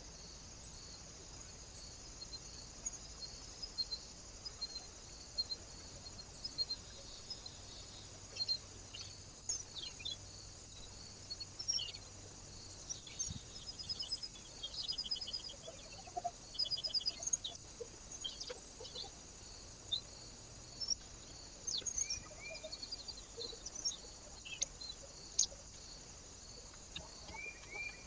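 Small birds calling at a feeder: scattered short chirps, quick sweeping notes and a few brief rapid trills, over a steady high hiss.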